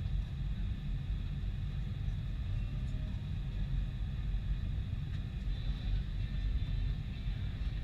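Boeing 747-400 jet engines running, a steady low rumble with a faint high whine above it.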